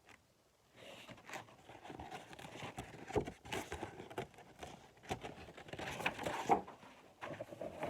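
Paper pages of a picture book rustling and crinkling as they are handled and turned, with many small ticks and scrapes, starting about a second in.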